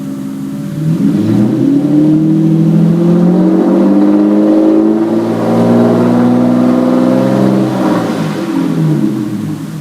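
1998 Mercedes-Benz S600 (W140) 6.0-litre M120 V12 with a straight-piped exhaust, only high-flow catalytic converters left in. It idles, is revved up about a second in, held high for several seconds, and then falls back toward idle near the end.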